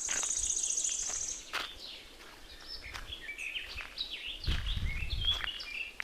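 Birds chirping, with many short calls that rise and fall. A fast, high trill runs through the first second and a half, and a brief low rumble comes about four and a half seconds in.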